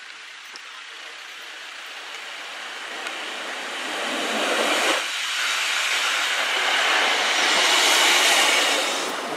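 Class 153 single-car diesel railcar passing close by on the line, its running noise building as it approaches and loudest as it goes past near the end.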